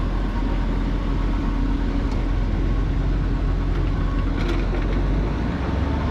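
A 1970s Ford L-800 fire truck's gasoline 391 V8 running steadily at idle, its note changing a little about five and a half seconds in.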